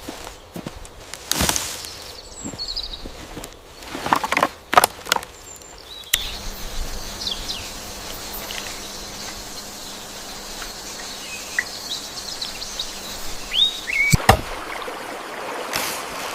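Scattered knocks and rustling of handling, then, after an abrupt change about six seconds in, steady outdoor hiss with short bird chirps and another sharp knock near the end.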